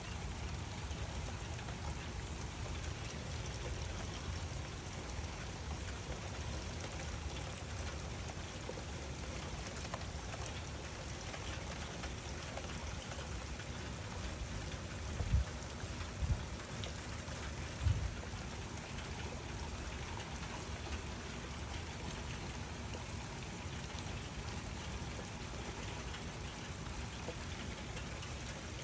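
Steady rain, with three brief low thumps about halfway through.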